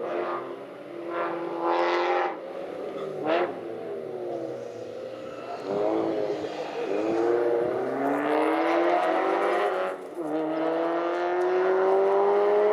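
Caterham Seven's engine under hard acceleration up a mountain climb, its pitch rising again and again and dropping back as the driver shifts and lifts for bends. A quick throttle blip about three seconds in, and a long rising pull near the end.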